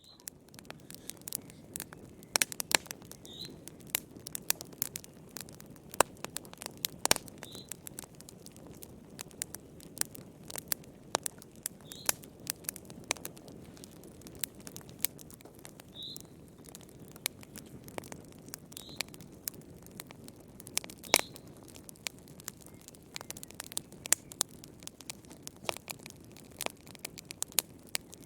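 Wood fire crackling in a fireplace: irregular sharp pops and snaps, some loud, over a steady low rumble of flames, with faint short high squeaks every few seconds.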